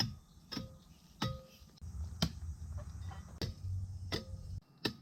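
Mountain bike descending a trail: sharp knocks and rattles from the bike over bumps, about seven at uneven intervals, some with a short metallic ring, over a low rumble of tyres on the ground.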